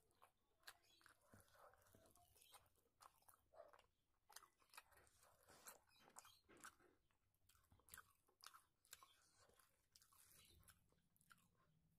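Faint chewing and mouth smacks of someone eating rice and curry by hand, heard as many short, irregular clicks.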